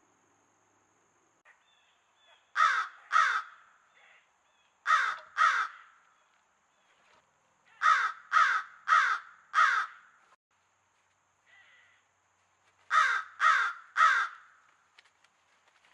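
Loud, harsh bird caws in quick groups: two, then two, then four, then three.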